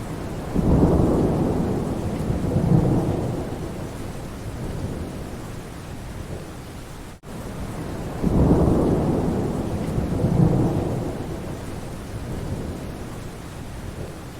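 Steady rain with thunder: a low rumble swells about half a second in and dies away over several seconds, then a second one rolls in about eight seconds in. The sound drops out for an instant about halfway through.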